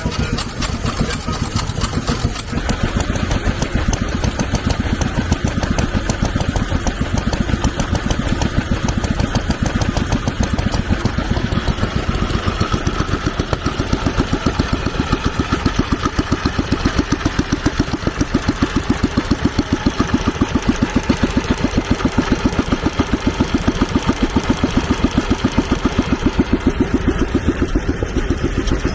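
Vintage stationary engine running steadily, its firing beat an even, rapid run of pulses.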